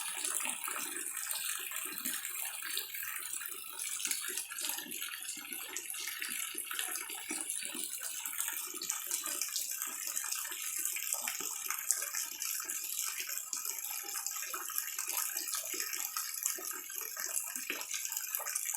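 Heavy rain falling steadily: a dense, even hiss of rain with the patter of many individual drops.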